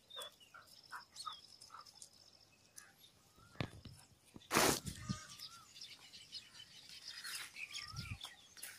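Birds chirping outdoors, one calling a short rising-and-falling whistle every couple of seconds, with scattered light clicks and a few low thuds; a brief loud rustle or knock comes about four and a half seconds in.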